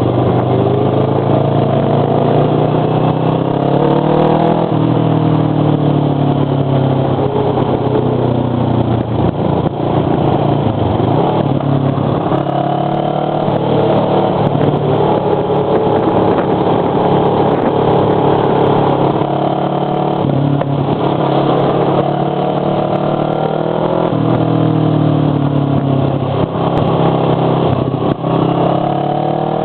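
Motorcycle engine with a loud muffler running hard under the rider. The pitch climbs and drops several times as the bike accelerates and changes speed along the road.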